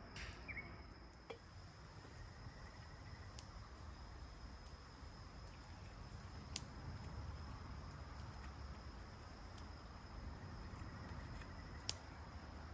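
Faint outdoor ambience: a steady high insect trill over a low rumble, with a few sharp isolated clicks, the loudest about six and a half seconds in and near the end.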